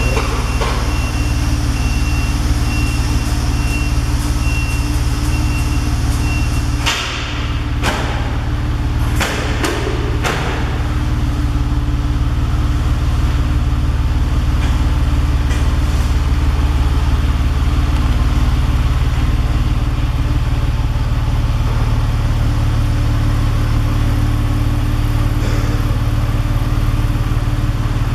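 Porsche 911 Carrera's flat-six engine idling steadily through a Tubi exhaust. A high electronic beep repeats in even pulses for about the first seven seconds, then a few knocks follow.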